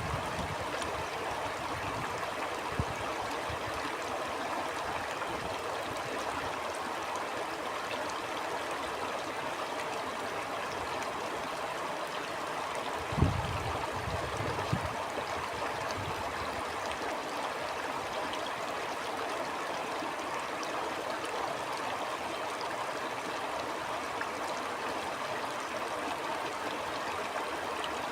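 Stream water flowing, a steady even rush, with a few brief low thumps, the loudest about halfway through.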